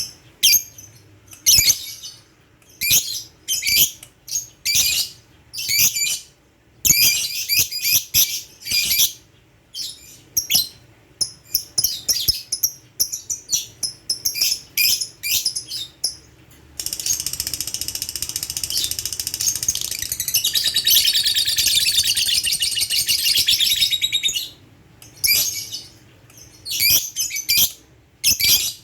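Lovebird chirping in short high bursts, then about 17 seconds in breaking into one long unbroken chattering trill for some seven seconds (the 'ngekek' song prized by lovebird keepers), before returning to short chirps.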